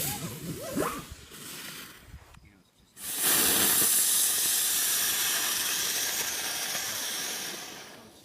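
A firework burning with a loud steady hiss that starts suddenly about three seconds in, runs for about five seconds and dies away near the end.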